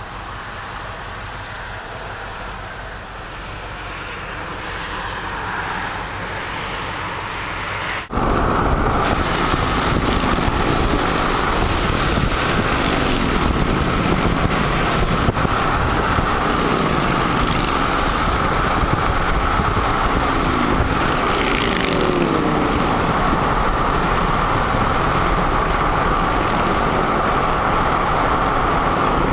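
Steady vehicle and road noise, much louder after a sudden change about eight seconds in, with faint engine pitch glides near the middle.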